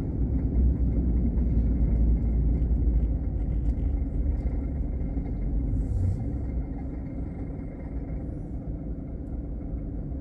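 Low, steady engine and road rumble heard from inside a moving car, easing off slightly toward the end.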